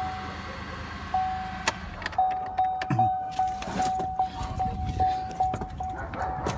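A car's electronic warning chime: a steady tone that, from about two seconds in, turns into short repeated dings about two to three times a second, among scattered clicks.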